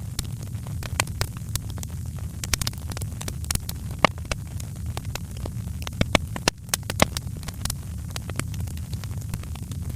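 Wood fire in a fireplace crackling: irregular sharp pops and snaps over a steady low rumble of the flames, with a few louder pops about four, six and seven seconds in.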